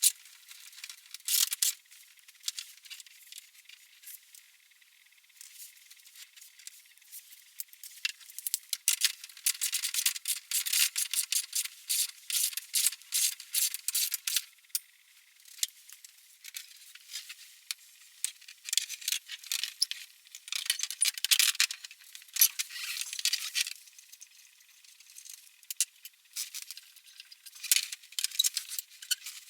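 Small metal parts and hand tools being handled, with irregular clicking, rattling and rubbing in bursts and short pauses between them.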